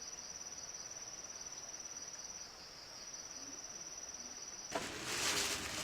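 A cricket trilling steadily on one high, rapidly pulsing note that falters briefly midway. A little before the end it gives way abruptly to a louder, noisy sound.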